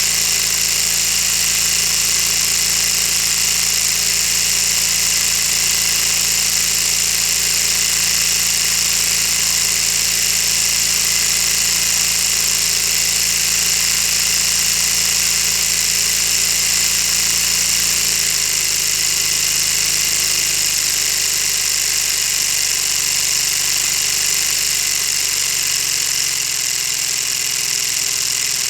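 Lego V-16 engine model running, its plastic pistons, crankshaft and gears making a steady high whirring clatter. The running pitch drops a step about two-thirds of the way through and again near the end, as it slows.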